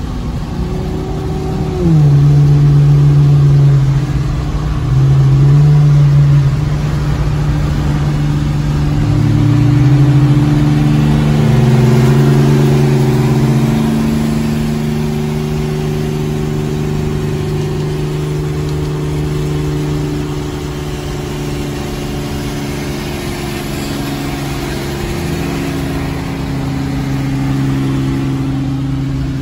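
Infiniti G37x's 3.7-litre V6 engine heard from inside the cabin while driving. It revs up loudest a couple of seconds in and again briefly after, then settles to a steadier drone as the car cruises, its pitch stepping and gliding with throttle and shifts.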